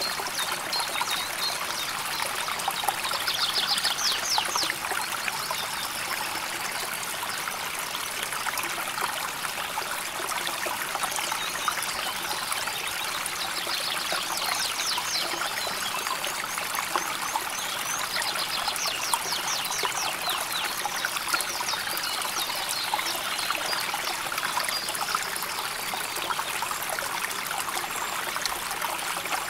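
A shallow river flowing and babbling steadily over stones. Short, rapid high trills come in a few times over it, near the start, in the middle and near the end.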